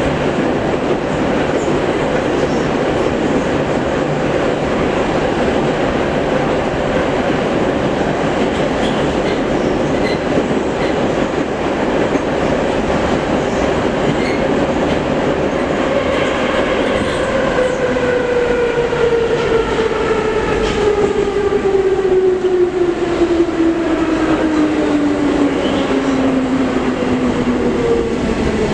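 Metro train running through a tunnel: steady wheel and rail noise with some clickety-clack. From a little past halfway, whining motor tones slide steadily down in pitch as the train slows, decelerating toward the next station.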